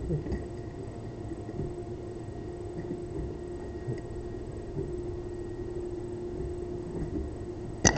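Solenoid-driven pulse propulsion device running: a steady electrical hum with faint scattered ticks, then a sharp loud clack with a quick run of clicks right at the end.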